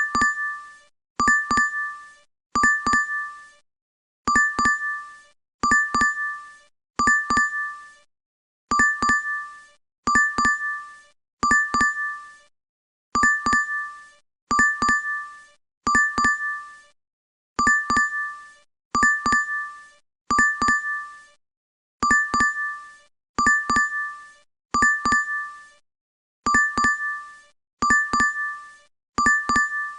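DoorDash app notification chime: a quick, bright double ding, repeated over and over about every second and a half.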